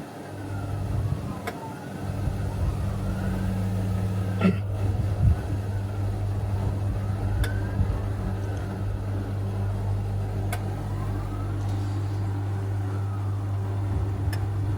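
National NA9450PN compact pulsator washing machine's motor running steadily with a low hum, with a faint pitch that rises and falls and a light tick about every three seconds.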